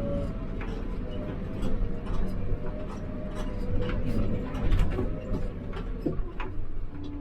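Hidromek 102B backhoe loader's diesel engine running, with a steady low hum, a few held whining tones and scattered knocks and clatter while it works gravel.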